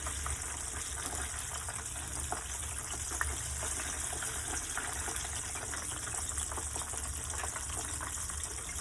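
Hot oil sizzling steadily with small scattered crackles as chicken pieces fry.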